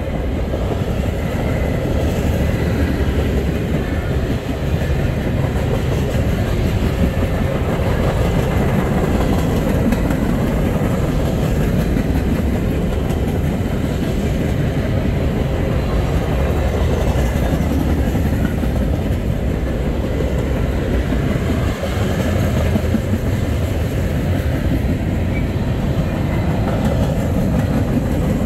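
Freight train rolling past, a steady rumble of its cars and wheels on the rails.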